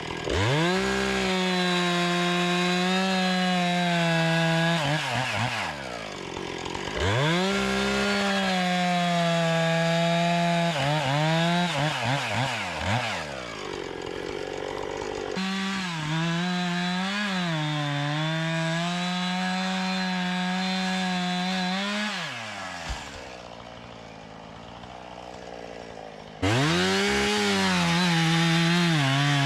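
Chainsaw revved up to full throttle and cutting wood in repeated bouts, its pitch dipping briefly under load and dropping away each time the throttle is released.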